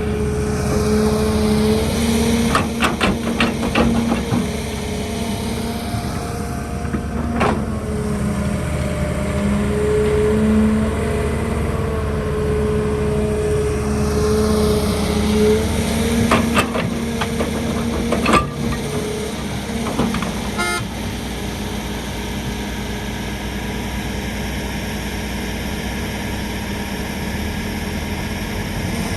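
Heavy diesel construction machinery running steadily, with a string of sharp clanks and knocks at irregular moments.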